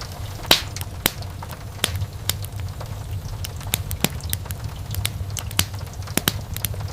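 Wood fire burning in a fireplace: a low steady rumble of flames with irregular sharp crackles and pops, a few of them loud.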